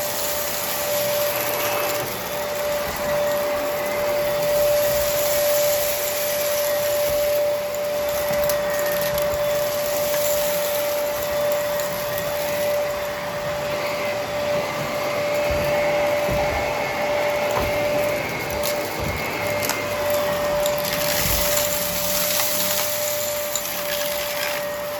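Brushroll vacuum cleaner running steadily, its motor holding one even whine over the rush of air. A few small clicks and crackles come through, as of debris being picked up.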